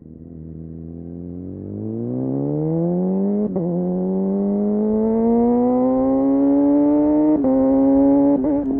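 Kawasaki Ninja engine through an Arrow exhaust with the dB killer removed, accelerating under load: its pitch climbs steadily, broken by quick upshifts about a third of the way in and again near the end, each with a short dip in pitch. The sound fades in over the first two seconds.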